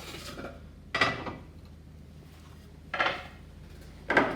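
Metal machine vise being handled on the drill table: three metallic clunks, about a second in, about three seconds in and near the end.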